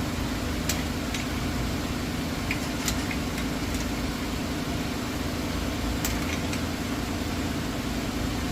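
Steady mechanical hum of a running motor, with a few faint clicks over it.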